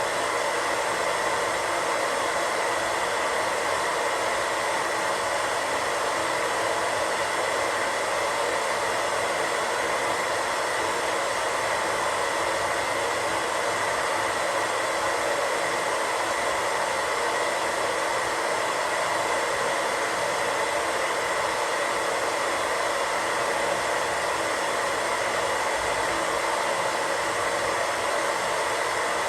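Radio static: a steady hiss of an untuned radio, unchanging throughout, with a faint whine near the middle of the hiss.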